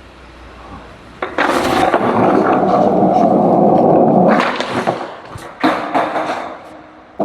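Skateboard wheels rolling over wet pavement, starting suddenly about a second in. A sharp clack of the tail popping comes about four seconds in, and a second hit of the board landing follows about a second later, after which the rolling fades.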